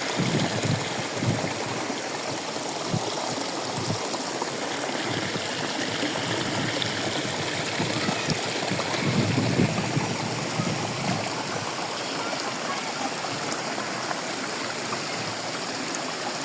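Stream water running steadily, with a few low bumps, the longest about nine seconds in.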